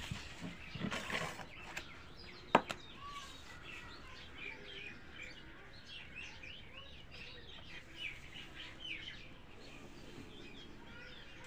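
Faint bird chirping: many short, quick chirps in a run, with a single sharp click about two and a half seconds in.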